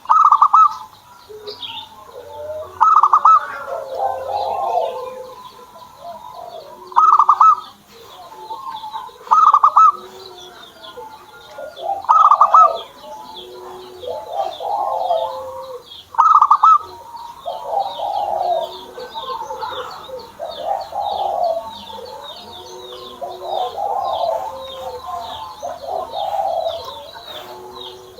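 Zebra doves (perkutut) cooing in repeated phrases every few seconds, with small birds chirping high above them. The chirps turn into a fast, steady trill about halfway through.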